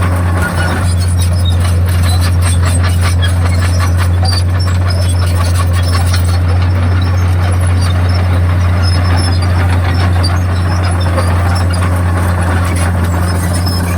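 Komatsu D51PX crawler bulldozer's diesel engine running with a steady low drone, with a rapid metallic clatter and squeal of the steel tracks through the middle seconds.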